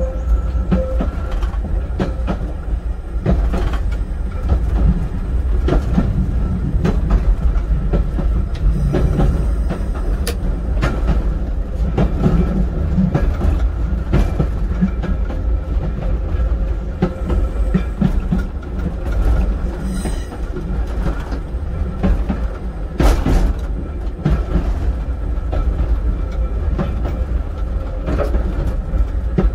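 Heritage railway train running along the track, heard from inside the driving cab: a steady low rumble with irregular clicks and rattles from the wheels over the rails, and a sharp knock about 23 seconds in.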